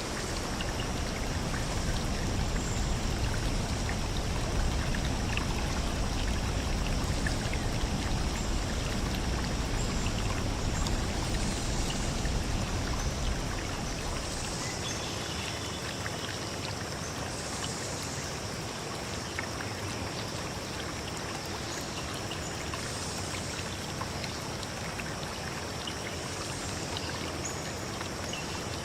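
Forest stream flowing and trickling: a steady rush of water that eases a little about halfway through.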